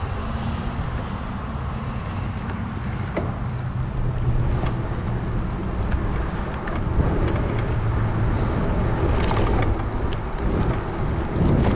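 Loud rolling rumble of a Salsa Journeyman bike's 650b tires on the trail, steady throughout, with scattered small clicks and ticks.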